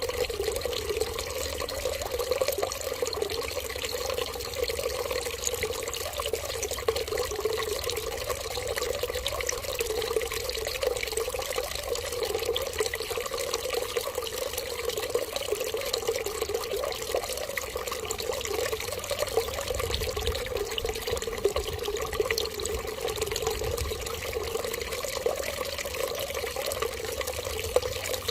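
Water running in a steady, unbroken stream.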